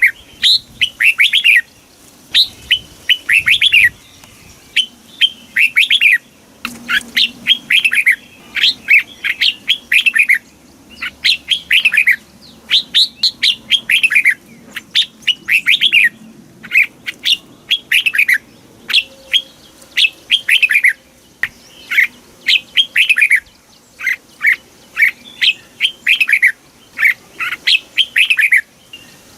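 Red-whiskered bulbul singing in the southern Thai 'master song' style. Its short phrases of quick, falling whistled notes repeat every second or two with brief pauses between them.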